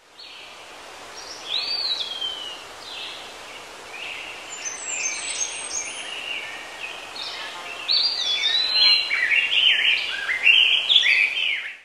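Several birds chirping and singing over a steady outdoor hiss, the calls growing busier about two-thirds of the way in. The sound fades in at the start and cuts off at the end.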